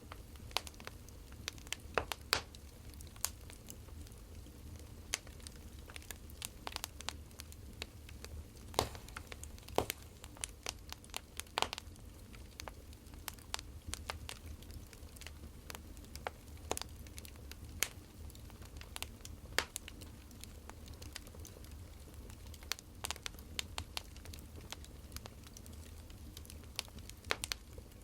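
Wood fire crackling: irregular sharp pops and snaps of burning firewood, a few each second, over a steady low rumble.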